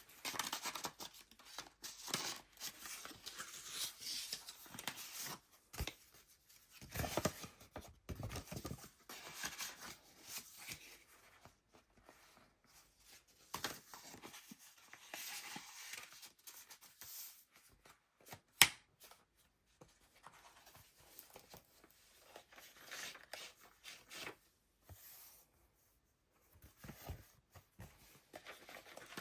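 Paper pages and layered ephemera of a handmade junk journal rustling and scraping as they are turned and handled, in irregular bursts with short pauses. One sharp click about two-thirds of the way through is the loudest sound.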